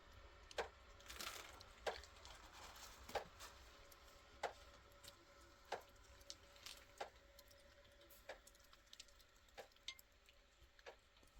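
Faint, evenly spaced ticks about every second and a third, over near silence.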